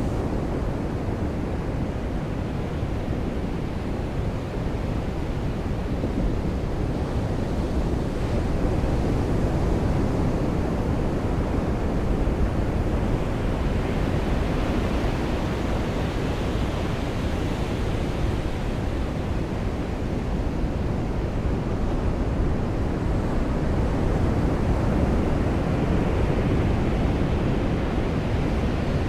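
Waves washing onto a beach with rain falling, a steady rush of noise that swells about halfway through and again near the end.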